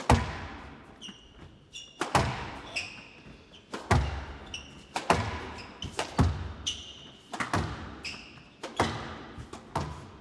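A squash rally: the ball struck hard by rackets and smacking off the court walls about once a second, with short high squeaks of court shoes on the wooden floor between the shots.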